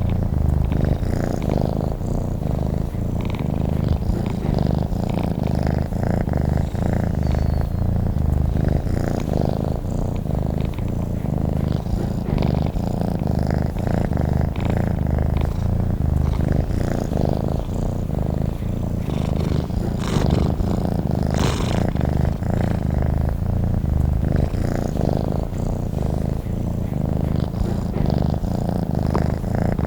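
Domestic cat purring steadily: a continuous low rumble of fine, rapid pulses.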